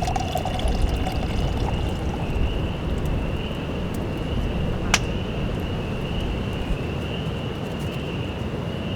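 Steady rain falling, with a continuous high-pitched wavering drone behind it and a single sharp click about five seconds in.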